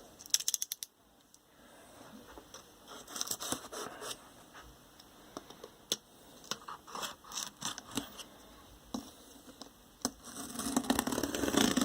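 A cardboard shipping box being opened and its contents handled: irregular scratching and scraping of cardboard and packaging, with scattered light clicks and taps.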